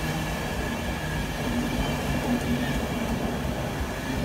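InterCity 225 Mark 4 coaches running past on the rails: a steady rumble of wheels and bogies with a low hum, with no break or change.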